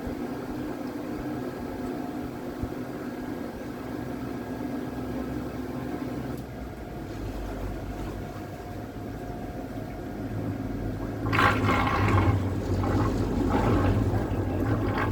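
Water rushing and splashing against the hull of a battery-electric trimaran under way, over a steady faint hum. The water noise turns sharply louder about eleven seconds in.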